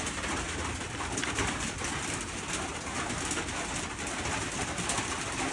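Steady rain falling, an even hiss with fine pattering, with birds cooing like pigeons or doves beneath it.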